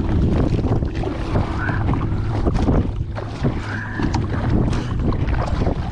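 Wind buffeting the microphone on a kayak, a steady low rumble broken by scattered short knocks and splashes of water against the hull.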